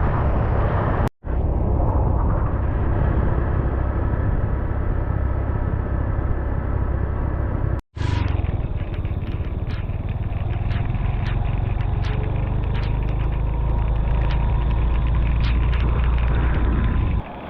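Scooter ride with a loud, steady low rumble of wind buffeting the microphone over the running engine. The sound drops out completely for an instant twice, about a second in and about eight seconds in, and faint ticks come through in the second half.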